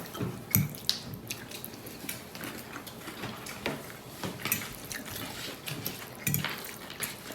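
Quiet, scattered small clicks and taps of people eating: utensils against bowls and plates.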